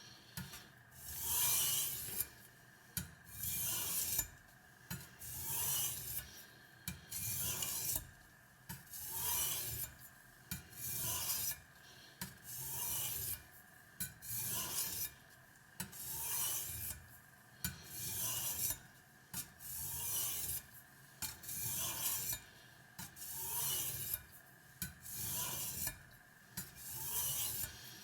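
Steel cleaver blade being stroked across a Spyderco medium-grit aluminium oxide bench stone used with water, a rasping scrape about once a second in a steady rhythm.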